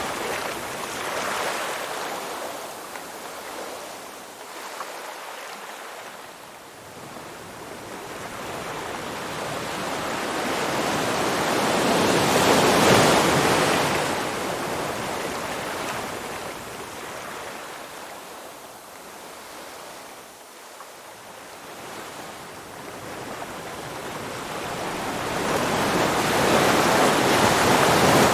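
Ocean surf: waves breaking and washing in, the rushing noise swelling to a peak about every 13 to 14 seconds and ebbing between.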